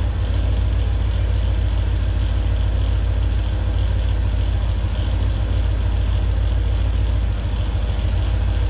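Chevrolet Camaro engine idling steadily, heard close up under the open hood, with the air conditioning switched off.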